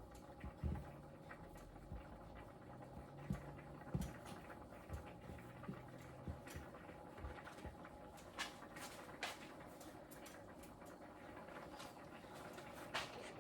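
Faint kitchen handling sounds while making dumplings: soft, irregular taps and clicks of dough and utensils, over a steady low hum.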